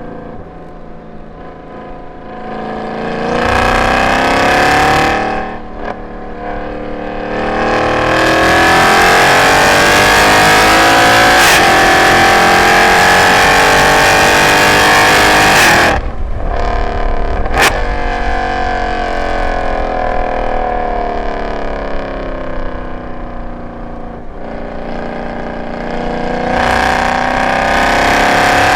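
Mercedes-Benz M156 6.2-litre V8 with long-tube headers, x-pipe and no catalytic converters, under hard acceleration on track: its note climbs steadily in pitch for several seconds, then cuts off suddenly as the throttle is lifted. A single sharp exhaust pop follows, the note falls away while slowing, and it climbs again under full throttle near the end.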